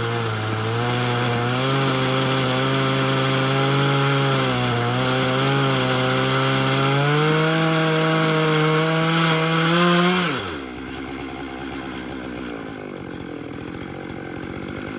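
Two-stroke chainsaw ripping through a live oak log in a chainsaw mill, the engine held at high revs under load with its pitch wavering as the cut goes. About ten seconds in, the throttle is released and the engine drops quickly to a quieter idle.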